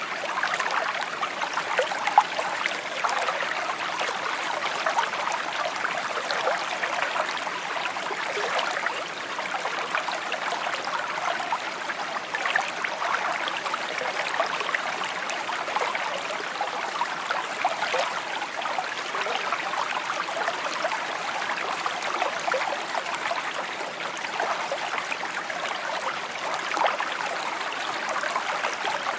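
Shallow creek water trickling and babbling steadily over stones, a continuous bubbling with many small quick splashes.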